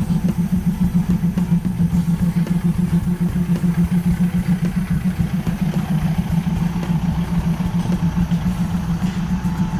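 An engine idling nearby: a steady low hum with an even, rapid throb.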